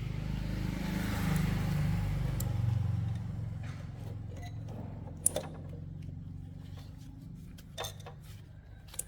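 A vehicle engine running with a low drone that fades away over the first few seconds, followed by a few light clicks.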